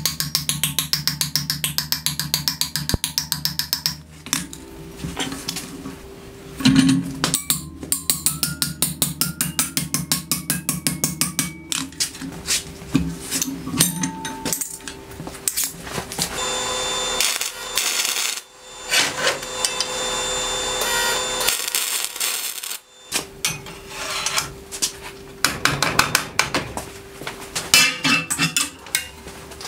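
Hand metalworking on steel held in a bench vise: runs of rapid, evenly spaced hammer strikes on a small steel plate, and file strokes on a steel plate.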